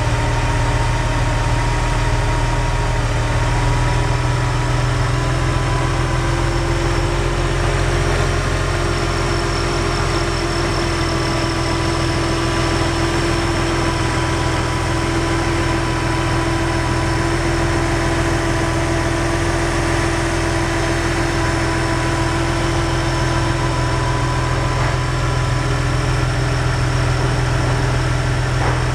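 Porsche Boxster M96.20 2.5-litre flat-six engine idling steadily, heard up close at its accessory drive, with the belt and pulleys turning.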